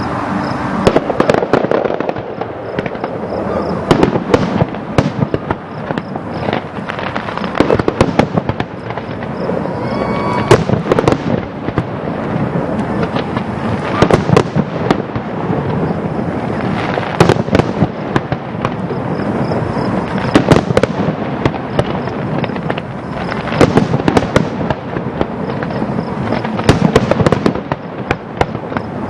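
Fireworks display: a dense, unbroken run of bangs and crackling bursts, with the loudest reports every second or two.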